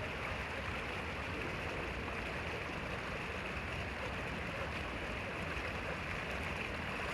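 Steady rushing noise with no breaks, like running water.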